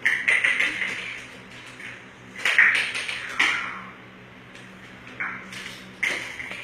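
A strange clicking noise: about five irregular bursts of rapid, ringing clicks, each lasting under a second, over a faint steady hum.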